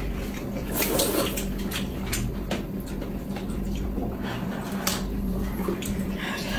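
Scattered light clicks and knocks of a meal at the table, utensils against bowls and dishes, over a steady low hum.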